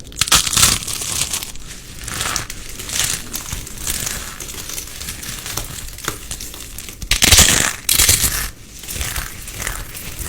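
Irregular crinkling and crushing noises of something crinkly being squeezed and handled close up, with two louder bursts about seven and eight seconds in.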